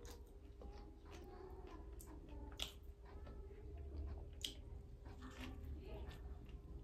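Faint close-up chewing and biting of a soft kulcha bun stuffed with chickpea filling, with a few sharp mouth clicks, over a faint steady hum.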